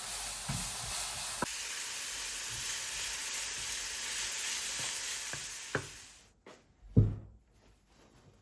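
Food sizzling in a hot frying pan, a steady hiss with a few light clicks, that cuts off suddenly about six seconds in. A single sharp knock follows about a second later.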